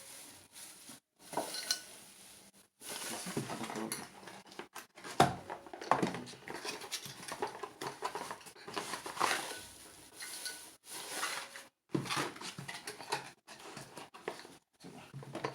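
Drinking tumblers being handled and set down one after another, with irregular knocks and clinks of hard cups against each other and the table.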